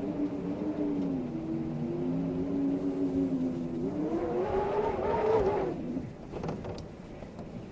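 Wind howling in wavering tones. The pitch rises higher about four seconds in, then the howl dies down near the end to a softer rush.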